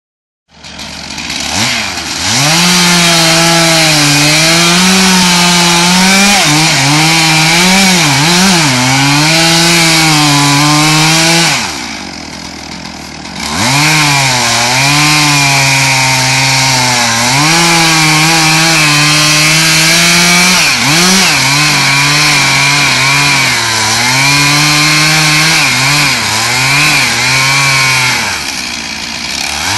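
Chainsaw running at high throttle and cutting wood, its engine pitch sagging and wavering as the chain bites. About midway it drops back to a low idle for a couple of seconds, then revs up and cuts again.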